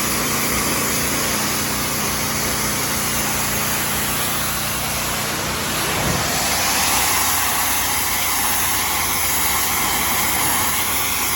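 High-pressure steam cleaning machine running: a steady engine drone under a loud hiss of spray. The tone shifts about halfway through.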